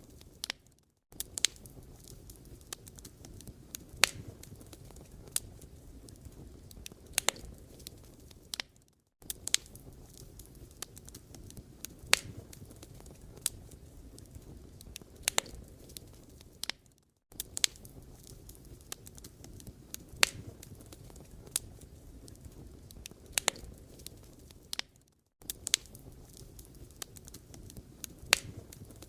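Firewood fire crackling: irregular sharp pops and snaps of burning wood over a low steady rumble. The sound cuts out for a moment about every eight seconds.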